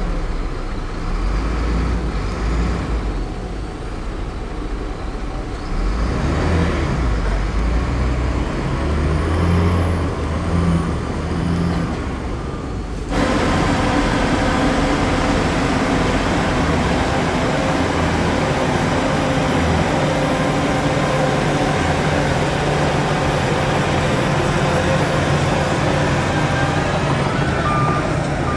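Heavy diesel earthmoving machinery, a bulldozer and dump trucks, with engines running under load. About halfway through, the sound changes abruptly to a louder, steadier engine. Right at the end a reversing alarm starts beeping.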